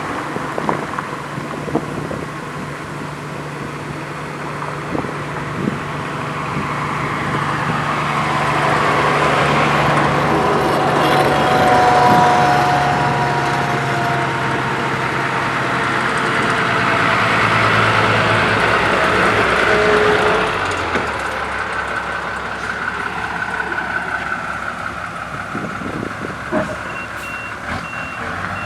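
Road roller's diesel engine running, getting louder through the middle as the machine nears and then easing off. A reversing alarm starts beeping near the end.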